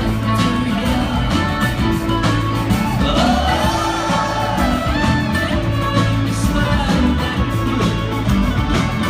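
Live band music with singing: a voice over bass, drums and strummed strings, with regular drum hits throughout.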